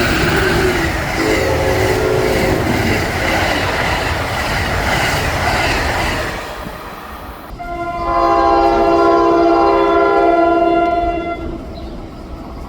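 Train running past with heavy rail noise, then a train's horn sounding one long chord of several tones for about four seconds.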